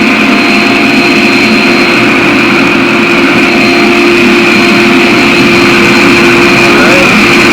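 A forge running steadily: a loud, even rush with a constant hum, the burner and blower at full fire.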